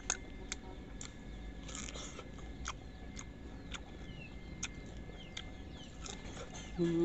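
A person chewing sour fruit, with wet mouth clicks about every half second, then biting into a piece of fruit near the end, followed by a short hummed "mm".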